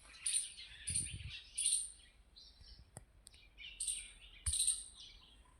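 Small birds chirping: short, very high chirps repeating every half second to a second, in a group early on and another near the end, with a single sharp click about three seconds in.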